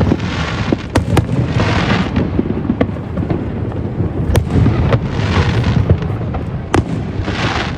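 Aerial fireworks bursting: a string of sharp bangs, a few every second or two, mixed with patches of crackling over a steady low rumble.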